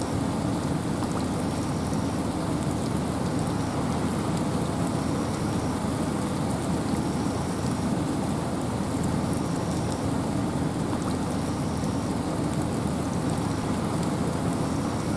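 Steady rain and wind in a forest: an even rushing hiss with a deep rumble underneath. A faint high note repeats about once a second.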